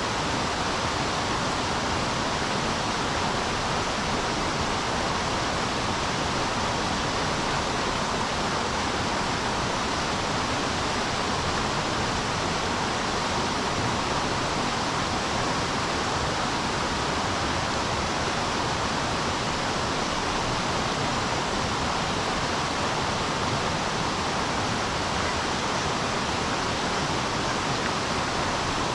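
River water rushing steadily, a continuous even hiss with no breaks or single splashes.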